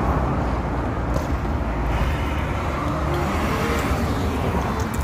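Steady low rumble of motor vehicle noise, even throughout.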